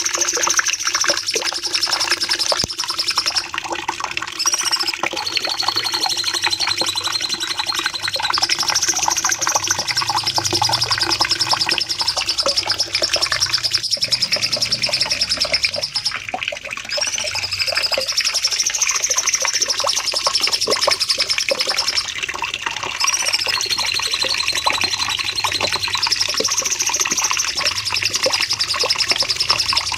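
Cucak cungkok (a leafbird) singing long, continuous high-pitched rapid trills, "shooting" runs that last several seconds each and are broken by short gaps and brief rising-and-falling notes. The same song sequence comes round again about every fourteen seconds, over a steady background hiss.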